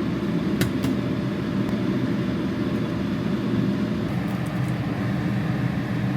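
Steady low rumble of a vehicle in motion, heard from inside it, with a couple of faint clicks about a second in.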